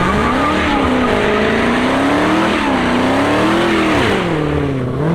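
Car engine revving hard, its pitch climbing and swinging up and down about three times, then falling back toward idle near the end.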